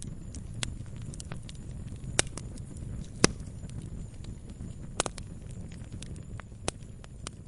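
Wood campfire burning: a low steady rumble of the flames with irregular crackles and sharp pops, the loudest pops a little after two seconds and a little after three seconds in.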